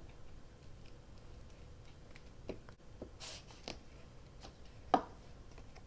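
Quiet handling of glued paper at a craft table: soft paper rustles and small light taps, with one sharper tap about five seconds in.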